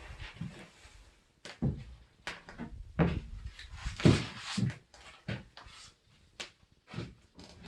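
Door frame being knocked and shifted into its opening: a series of irregular knocks and bumps, the loudest about three and four seconds in.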